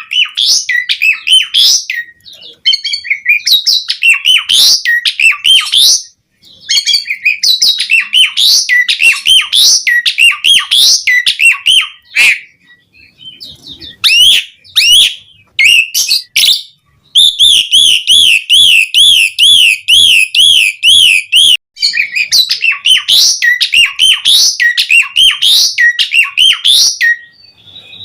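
Asian pied starling (jalak suren) singing loud and continuously, in phrases of rapid, varied whistled and chattering notes separated by short pauses. Just past the middle comes one unbroken, rapidly wavering whistled trill lasting about four seconds.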